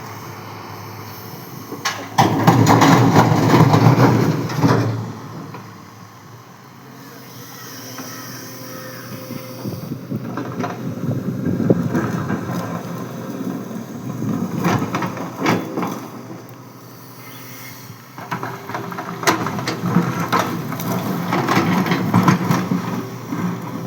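Tata 220 hydraulic excavator working as it loads stone: the engine hums steadily and grows louder in three spells, with sharp knocks and clatter of rock in each.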